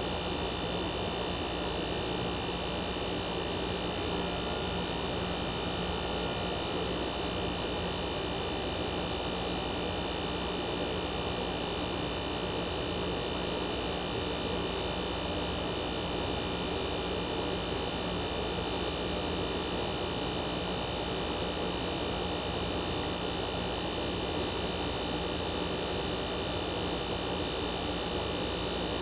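Air conditioner running with its compressor and fan on: a steady hum with a constant high-pitched whine. The refrigerant circuit is cooling properly, with the high side hot and the low side icy cold.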